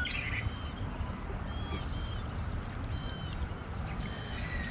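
A bird giving a short, high call again and again over a steady low rumble of outdoor noise.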